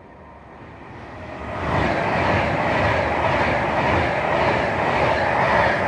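A train running through the station: the sound of wheels on rail builds over the first two seconds, then holds as a steady loud rush.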